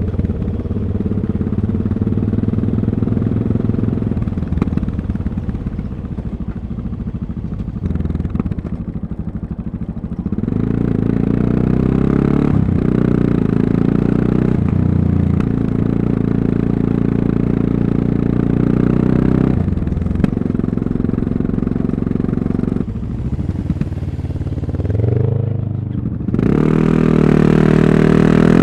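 Yamaha MT-03's 660 cc single-cylinder engine running while riding, ticking over softly at first. About a third of the way in it picks up into a louder, steady run. Near the end it eases off, climbs in pitch and pulls hard again.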